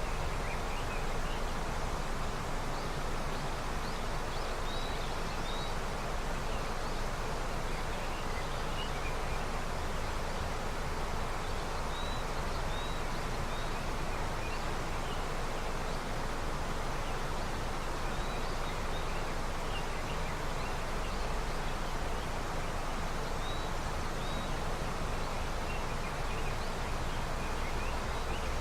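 River running with snowmelt, a steady rushing of water, with faint short bird chirps scattered through it.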